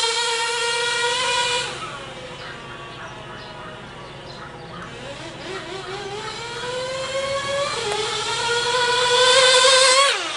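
The GO 0.98cc two-stroke glow engine of a Vulcan 1/16 nitro RC buggy running at high revs as the buggy drives around: a high-pitched buzzing whine. It fades as the buggy moves away about two seconds in, climbs in pitch and loudness as it speeds back, and drops in pitch as it passes close near the end.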